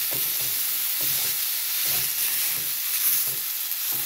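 Chicken tenderloins frying in butter in a nonstick pan, with a steady sizzle and a few faint knocks of a utensil against the pan.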